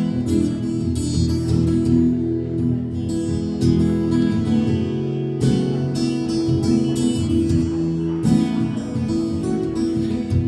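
Acoustic guitar strumming chords in an instrumental break of a folk song, without singing.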